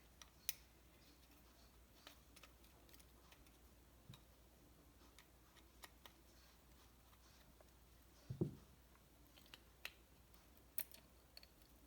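Near silence with scattered faint clicks from small parts being handled on a workbench, and one soft thump about eight seconds in.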